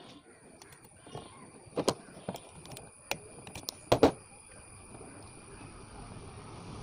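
Irregular sharp metal knocks and clinks of hand tools on chainsaw engine parts during disassembly. The loudest double knock comes about four seconds in.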